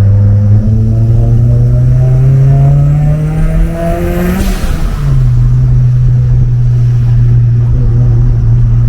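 Mitsubishi Lancer Evolution IV's turbocharged four-cylinder engine accelerating, its note climbing steadily for about four seconds. About halfway through the revs drop with a brief rush of air at the gear change, and the engine then settles into a steady, lower drone.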